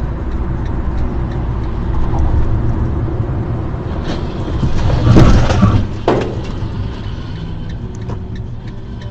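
Steady road and engine rumble of a moving vehicle, with a louder rushing, crackling burst that peaks about five seconds in and again around six seconds before settling back to the rumble.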